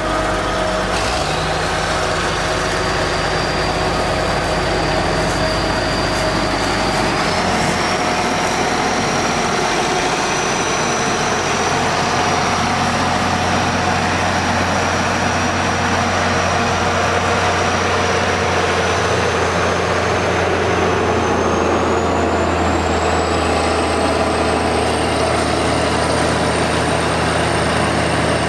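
Heavy diesel engine of a working machine running steadily under load, with a high whine that steps up in pitch about a quarter of the way in and climbs again near the end.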